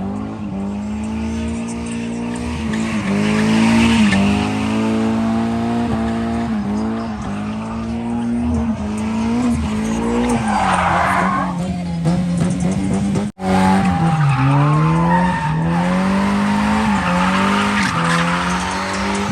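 Car engine revving up and down again and again while its tyres squeal, as in donuts or a burnout. The sound drops out for an instant about 13 seconds in.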